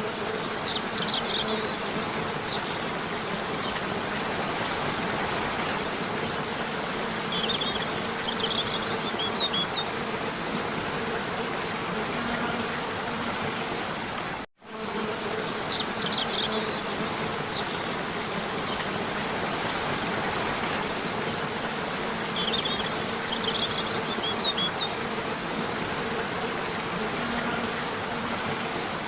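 Steady buzzing of many insects, with a few clusters of short high chirps. The same stretch of about fifteen seconds plays twice, broken by a brief dropout in the middle.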